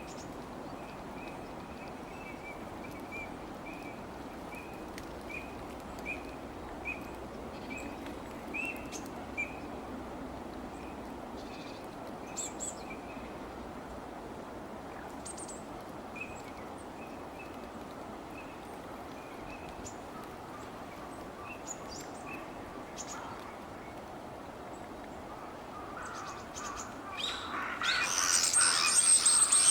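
Wild birds calling outdoors: a short high note repeated about twice a second, fading in and out, over a steady outdoor hum, then louder, harsher calls starting near the end.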